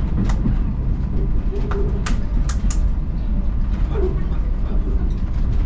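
Railway passenger train rolling along the track: a steady low rumble with several sharp clicks and squeaks, most of them in the first half.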